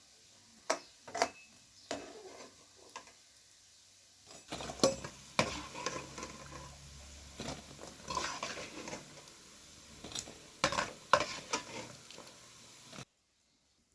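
Metal utensils clinking and scraping against cookware in a series of sharp knocks. From about four and a half seconds in, a steady hiss runs under them. Everything cuts off abruptly about thirteen seconds in.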